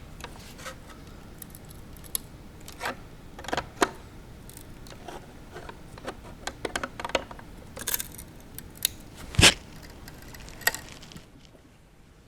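Irregular clicks, taps and light scrapes of small hard parts being handled at a workbench, with one sharper knock about nine and a half seconds in.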